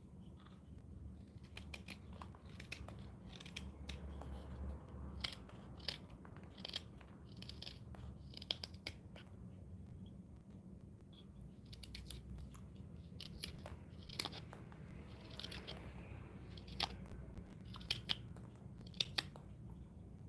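Wood being hand-carved with a blade: short, irregular scraping cuts, each stroke shaving the wood, with a few sharp clicks near the end.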